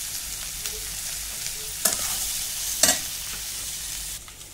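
Onions, tomatoes and cashews sizzling in oil in a kadhai, with a metal spoon stirring and knocking sharply against the pan twice, about a second apart. The sizzle cuts off near the end.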